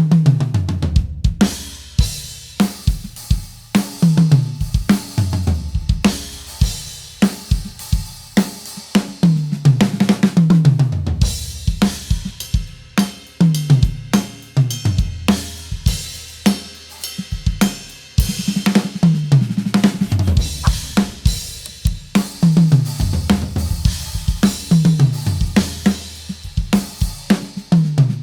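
Acoustic drum kit being played: bass drum, snare and cymbals, with repeated fills that run down across the toms, each stroke lower in pitch than the last. The toms are fitted with Evans HD Dry double-ply heads and sound short and punchy.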